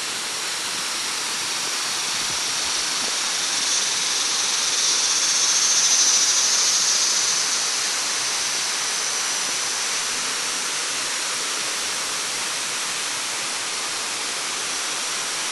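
Steady rushing hiss of a waterfall and river, rising a little in the middle and then easing back.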